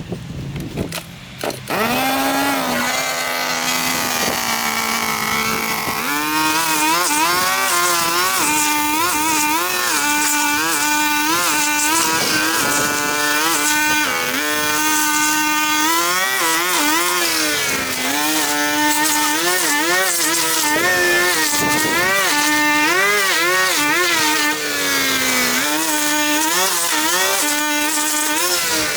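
Small petrol engine of a handheld garden power tool starting up about two seconds in, then running and revving up and down again and again.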